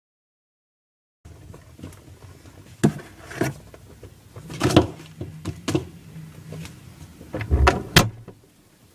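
About a second of dead silence, then scattered knocks, clicks and rustling of things being handled, the loudest knock just before the end.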